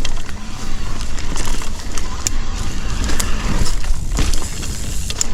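Mountain bike riding along a dirt trail: a steady low rumble of wind and tyres, with frequent sharp clicks and rattles from the bike.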